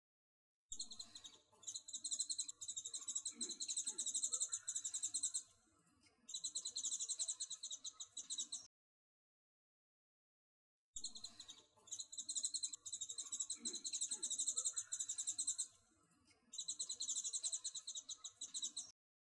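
High-pitched, rapid bird trilling in long runs with a short break in each. The same stretch of about eight seconds plays twice, separated by a couple of seconds of dead silence.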